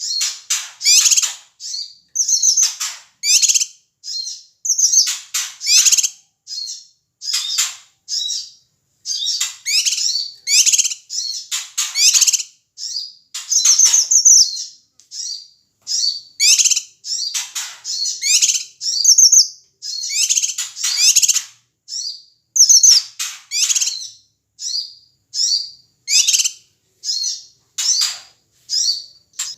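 Cucak kinoi calling loudly and excitedly: a rapid, unbroken series of short, high chirps and quick whistled phrases, several a second, with only brief gaps.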